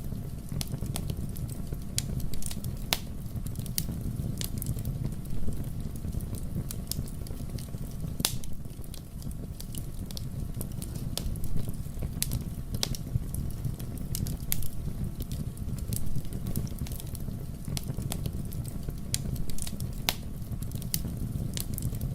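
Wood fire burning in a fireplace: a steady low rumble from the flames, with irregular sharp crackles and pops and a few louder snaps.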